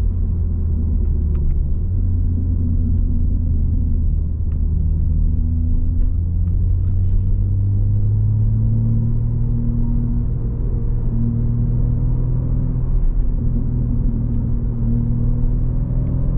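BMW G80 M3's twin-turbo straight-six, fitted with a single midpipe, running with a low, steady exhaust rumble while driving. Its pitch climbs slowly in the second half as the car gently gathers speed.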